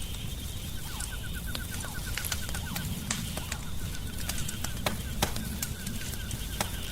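Crackling wood fire: sharp pops and snaps over a low rumble. A fast, even run of short chirps, about six a second, goes with it in the first half and again near the end.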